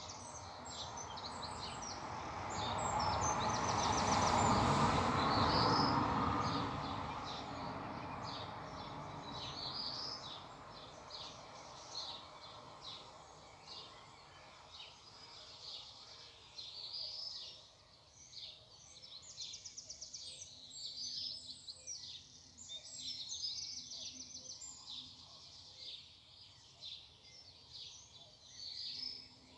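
Several small birds singing outdoors in the morning, with many short chirps and quick trills overlapping. In the first several seconds a broad rushing noise swells and fades.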